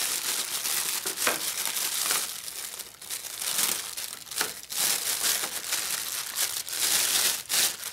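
Packaging of a new rocker arm kit crinkling and rustling as it is handled and opened, in irregular bursts.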